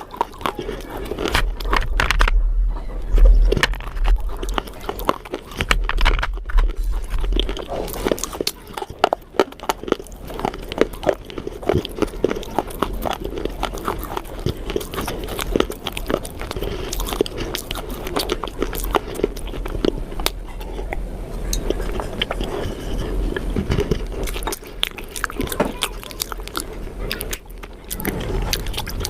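Close-up crunching and chewing of baked clay pot pieces: a dense, continuous run of sharp cracks and crunches as the brittle clay is bitten and ground between the teeth.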